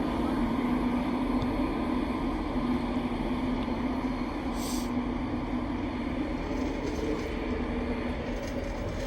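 Class 91 electric locomotive and its InterCity 225 train departing: a steady low hum and rumble that eases off slightly. A brief hiss comes about halfway through.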